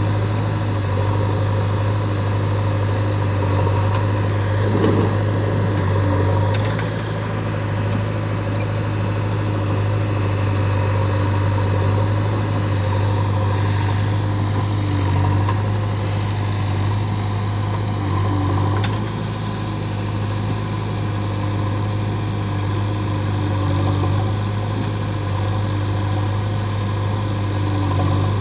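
Diesel engine idling steadily with a deep, even hum.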